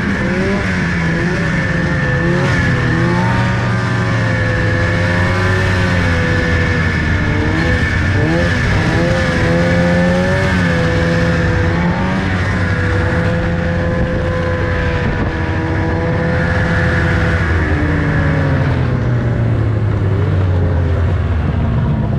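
A vehicle engine running loudly and continuously, its pitch rising and falling as the throttle changes while it is driven, with a steady high whine over it.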